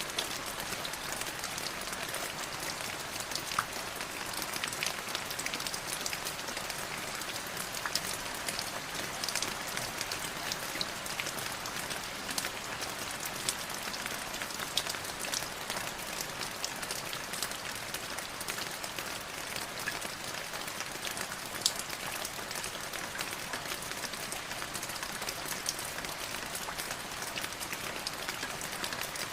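Light drizzle: a steady patter of rain with many small scattered drop clicks and an occasional louder drop.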